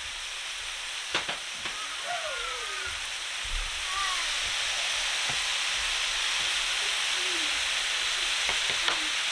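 Flank steak fajita meat with peppers and onions frying on a hot electric griddle, a steady sizzle that grows louder about four seconds in. A few sharp clicks are heard over it.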